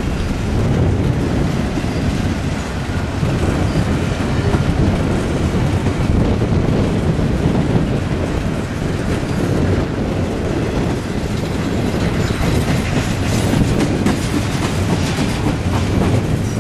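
Freight train's double-stack well cars rolling past close by, their steel wheels on the rails making a loud, steady noise.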